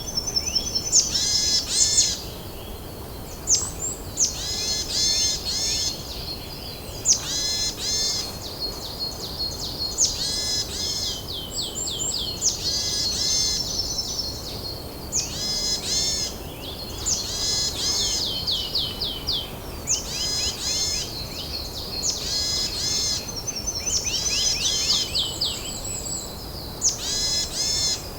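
Songbirds singing in mountain woodland: a short phrase of rapid, arching whistled notes repeated about every two seconds, with a thinner buzzy trill now and then, over a steady low background noise.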